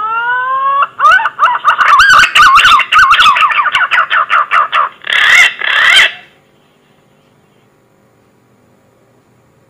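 Green pigeon (punai) whistling call played as a hunting lure: a rising whistle, then a fast run of wavering whistled notes, ending in two louder notes before it stops a little past halfway.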